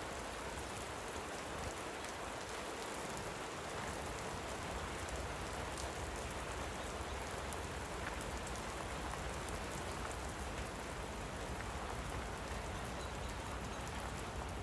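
Light rain falling: a steady hiss of rain with scattered ticks of single drops, over a low rumble.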